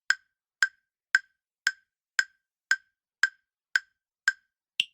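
Ticking countdown-timer sound effect: ten evenly spaced, sharp wood-block-like ticks, about two a second. The last tick, near the end, is higher in pitch.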